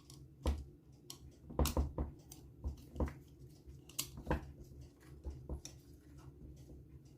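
Scattered light clicks and taps of small metal engine parts and tools being handled, about a dozen over several seconds.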